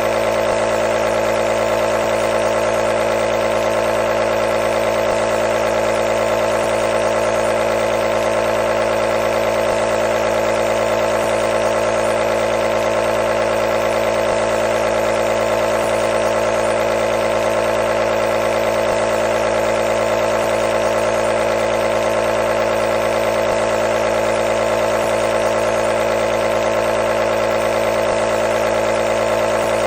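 Nebulizer compressor running steadily, a constant motor hum with hiss.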